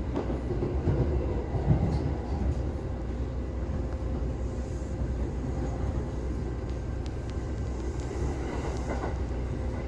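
Shinkansen bullet train running, heard inside the passenger car: a steady low rumble with a faint constant hum.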